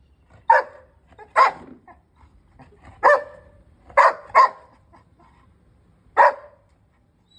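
Labrador barking six times in short, sharp barks, with two in quick succession about four seconds in.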